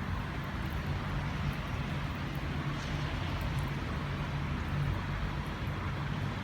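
Steady low hum of a car heard from inside the cabin, with an even hiss of heavy rain outside.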